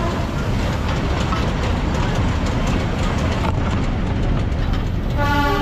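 Matheran toy train's narrow-gauge coach running, heard from its open doorway: a steady rumble and rattle of wheels on the rails with many small clacks. About five seconds in the train's horn starts sounding, a held chord of several tones.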